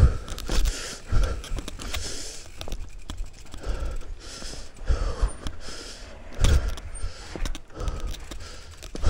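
Mountain bike rattling and clicking as it is handled and ridden over rocky trail, with irregular knocks, and the rider's heavy breathing.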